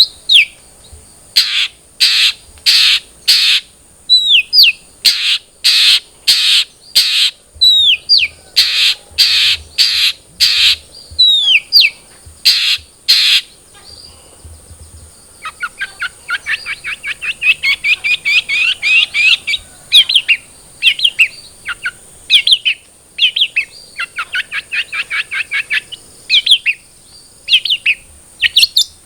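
Long-tailed shrike (cendet) singing: loud harsh rasping notes alternating with short down-slurred whistles, then from about halfway a fast chattering run of notes, followed by scattered single notes.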